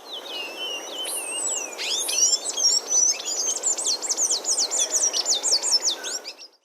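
Palm tanager singing: a fast, squeaky twittering of high chirps that turns into a rapid run of quick falling notes, over a steady background hiss. The song cuts off near the end.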